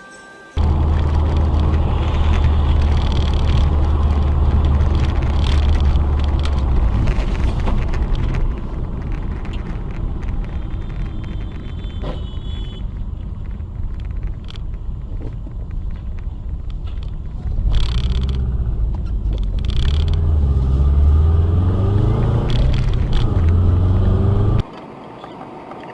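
Car engine and road noise picked up by a dashcam, a steady low rumble that starts abruptly. In the last several seconds the engine note climbs as the car accelerates, and the sound cuts off suddenly near the end.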